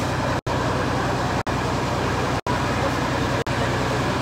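Steady vehicle-like rumble with a constant low hum, cut by brief dropouts to silence about once a second.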